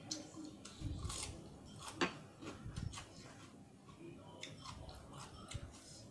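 Eating sounds of fried chicken with sambal: chewing and biting with scattered crunches and clicks, a sharp click about two seconds in.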